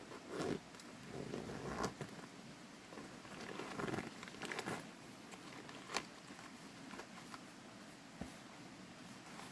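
Irregular rustling scrapes with a few sharp clicks in between, the clearest click about six seconds in.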